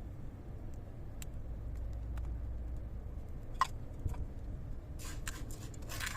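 Steady low rumble of wind, with scattered small clicks and crackles that grow denser near the end.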